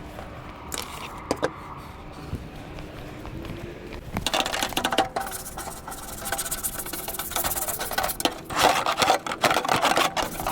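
Hand scrubbing and scraping on the furnace's metal parts during cleaning, with rapid back-and-forth strokes and small clicks. There are a couple of knocks early on, and the strokes get faster and louder from about four seconds in.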